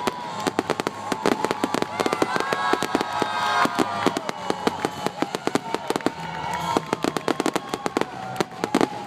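Fireworks display: a dense, continuous run of bangs and crackles, several per second.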